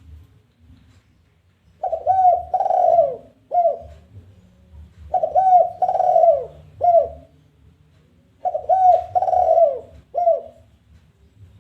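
Spotted dove (tekukur) giving its challenging territorial coo, the 'kuk 1' song type: three phrases about three seconds apart, each a quick couple of notes, a longer falling coo and a short separate final note.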